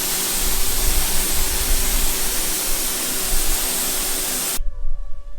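Loud, steady hiss of water spraying hard, as from a hose or pressure washer, with a low rumble under it; it cuts off suddenly about four and a half seconds in.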